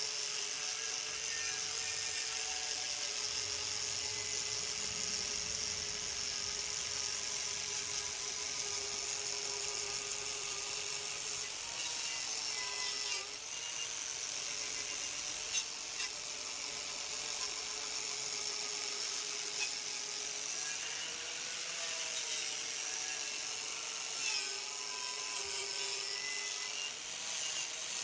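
A handheld electric power tool running steadily with a high whine and hiss, its pitch dipping slightly now and then as it works under load.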